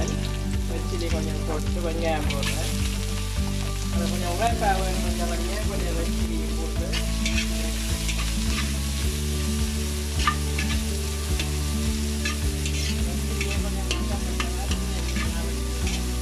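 Dried red chillies and sliced onions sizzling in hot oil in a metal wok, with a metal slotted spatula stirring and scraping against the pan in short strokes throughout.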